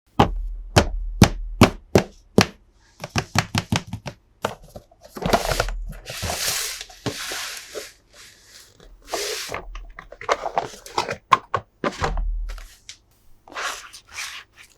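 Toy packaging being handled: a quick run of sharp taps or clicks, about two a second, then stretches of plastic or cardboard rustling and scraping mixed with more clicks.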